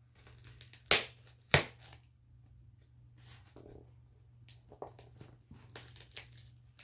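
Hands handling a parcel and its contents: two sharp knocks about a second and a second and a half in, then faint rustling and light clicks over a steady low hum.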